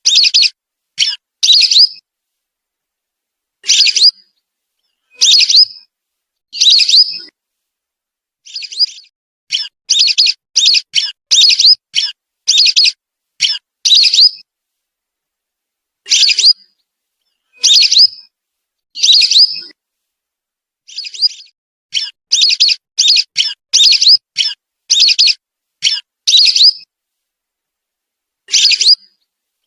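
Recorded lesser whistling duck (belibis) calls played as a lure: quick series of short, high, whistled notes, several a second, broken by pauses of complete silence of one to two seconds.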